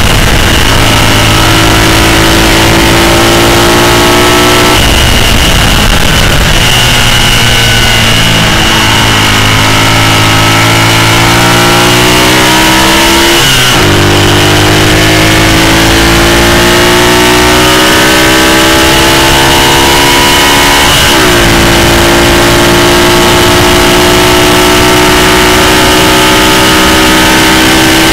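Racing sidecar outfit's engine at full throttle, heard from an onboard camera: its pitch climbs steadily through each gear and drops sharply at two upshifts, about halfway and about three-quarters of the way through, with a steady high whine and wind rush over it.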